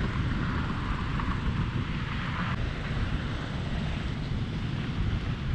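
Steady rumble of wind on the microphone over a Yamaha R6 sport bike's engine running at low revs as it is ridden slowly on the clutch.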